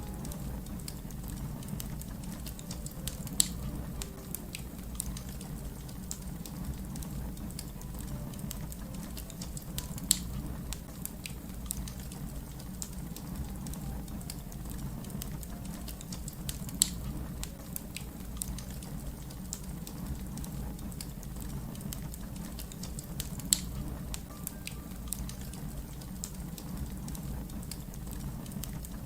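Wood fire crackling: a stream of small pops and clicks over a low steady rumble, with a louder sharp pop about every seven seconds.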